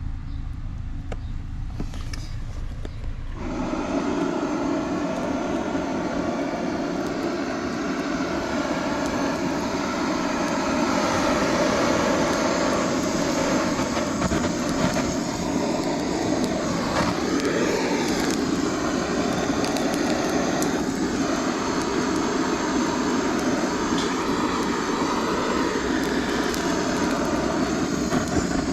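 A steady engine or motor drone that starts suddenly about three and a half seconds in and holds at an even level.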